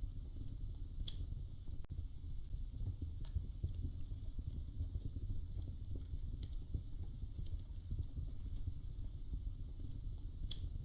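Wood fire crackling in a fireplace: sharp pops every second or two over a steady low rumble.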